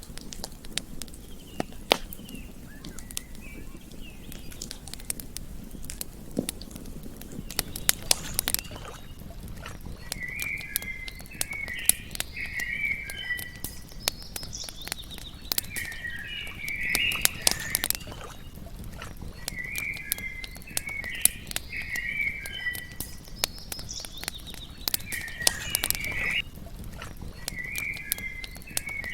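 Campfire crackling, with frequent sharp pops and snaps over a low steady hiss. From about ten seconds in, short runs of chirping animal calls come back about every five seconds.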